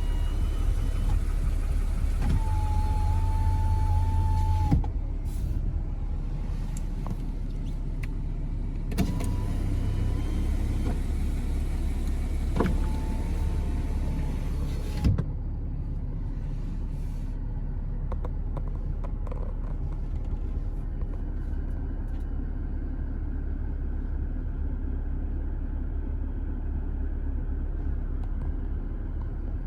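2009 Porsche Boxster S's flat-six engine idling steadily, while the car's electric window or convertible-top motors whine twice for about two seconds each, with clicks as they stop. Only the idling engine is heard in the second half.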